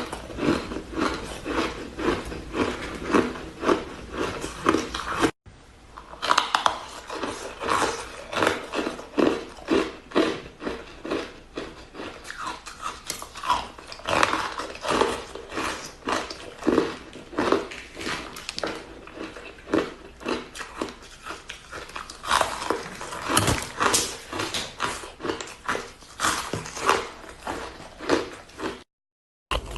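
Close-mic biting and crunching of purple-flavoured shaved ice, a dense run of irregular cracks and crunches, broken by two short silent gaps, about five seconds in and near the end.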